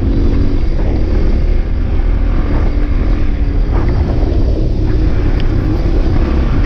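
Off-road motorcycle engine running steadily, with heavy wind rumble on the microphone.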